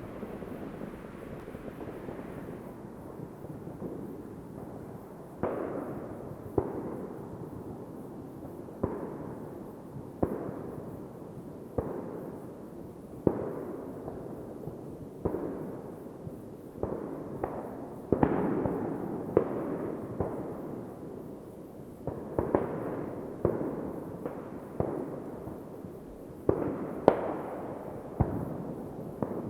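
Fireworks going off in a steady stream, a sharp bang every second or so, each trailing off in an echoing rumble, over a continuous background of more distant bangs and crackle.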